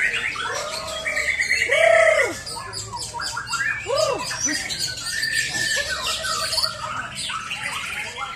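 Several white-rumped shamas (murai batu) singing at once: overlapping loud, varied songs of rich sweeping whistles, fast trills and harsh chattering notes.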